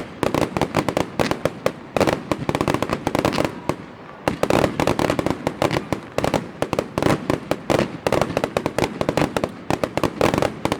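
Fireworks going off in a dense, rapid barrage: many sharp bangs a second, with brief lulls about two and four seconds in.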